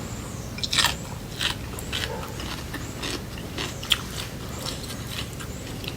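Close-up eating sounds: crisp bites and chewing of fresh cucumber salad, a string of short crunches and wet clicks about every half second.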